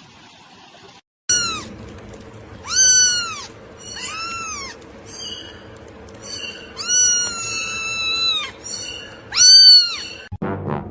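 A domestic cat meowing over and over, about eight meows with one long drawn-out meow in the middle, over a steady background music bed.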